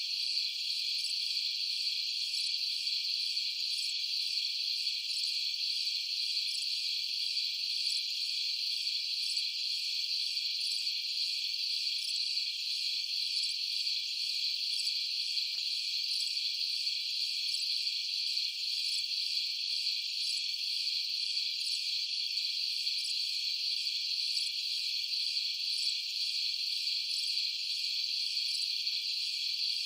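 Night chorus of crickets: a dense, continuous high-pitched trill that holds steady.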